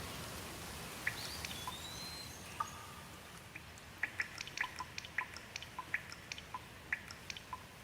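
Water drops falling in quick, irregular plinks over a steady low hiss of rain, with a short bird whistle about one and a half seconds in.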